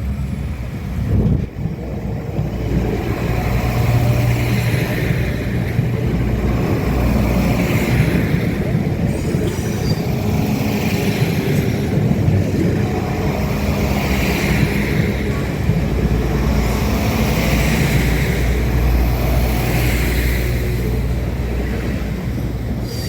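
Steady low rumble of an idling vehicle engine, with softer higher swells recurring every few seconds.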